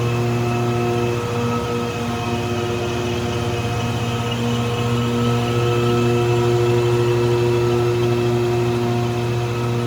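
PC6000 concrete pavement grinding machine running steadily during a first cutting pass of an NGCS surface texture, a constant engine drone with a steady hum that holds one pitch.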